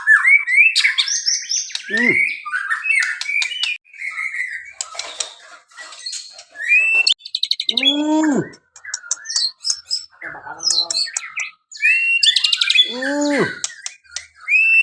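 A caged competition songbird singing a loud, varied song of fast trills, whistled glides and chattering phrases, with two lower, arching calls at about 8 and 13 seconds in.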